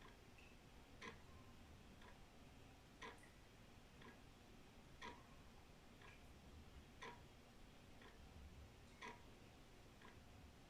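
Old wall clock ticking steadily about once a second, the ticks alternating louder and softer in a tick-tock rhythm.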